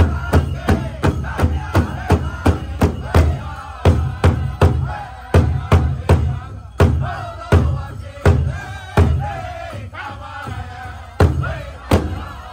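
Powwow drum group: singers chanting together over a large drum struck in a steady beat of about three strokes a second. The beat slows to widely spaced strokes about four seconds in and drops out for a couple of seconds near the end while the singing carries on.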